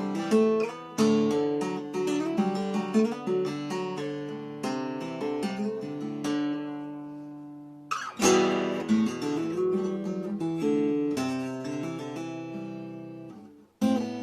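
Guitar freshly fitted with new strings, played as a melody of picked notes mixed with strums. One phrase rings out and fades, then a loud chord is struck about eight seconds in, and playing resumes after a short break near the end.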